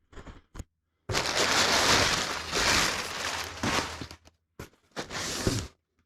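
Parts packaging being handled and opened: a long rustling, crinkling noise from about a second in, then a shorter burst of it near the end.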